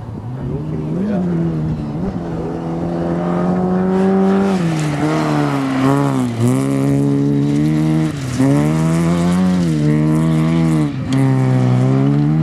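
Rally car engine at high revs on a gravel stage, growing louder over the first few seconds as the car approaches. The engine note drops sharply and climbs back several times.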